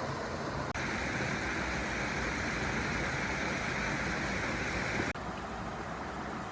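Stream water flowing with a steady rush, changing abruptly twice as the shots cut, the middle stretch brighter and more splashy.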